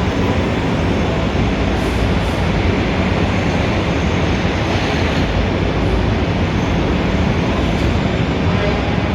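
Steady, dense city traffic noise: a continuous low rumble under a broad hiss, with no single vehicle standing out, swelling slightly about halfway through.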